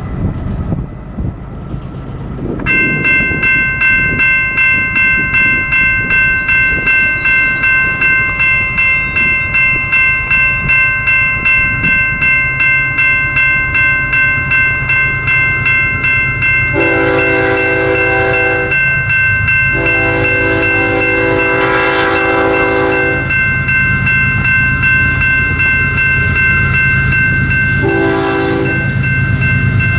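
Grade-crossing bell ringing at about two strokes a second, then a diesel freight locomotive's horn sounding the crossing signal: two long blasts, a short one near the end, and the start of another, over the rising rumble of the approaching train.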